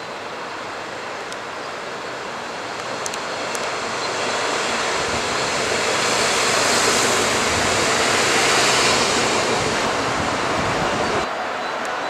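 Siemens Desiro BR 642 diesel multiple unit passing close by: a rushing rumble of engine and wheels on rail that grows louder as it approaches and is loudest as it goes by, then stops abruptly near the end.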